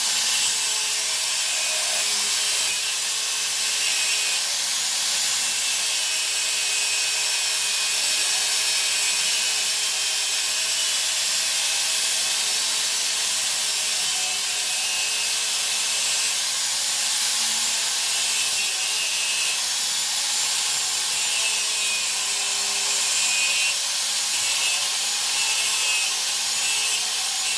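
Power tool cutting through steel stock: a continuous harsh cutting noise with a motor whine that wavers slightly in pitch as the cut loads it.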